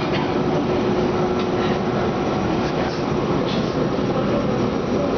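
Inside a Medellín Metro car running on the rails: the steady rumble and hiss of the moving train, with a constant low hum and a few faint light clicks.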